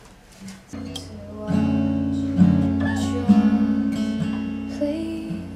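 Acoustic guitar playing the introduction to a song, strummed chords coming in under a second in and filling out about a second later, with firmer strokes twice in the middle.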